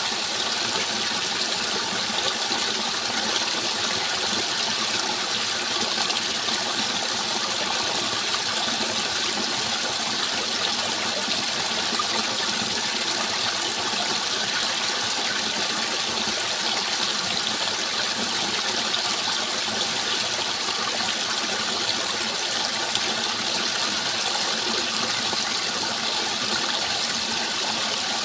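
Flowing water rushing steadily, with no change in level.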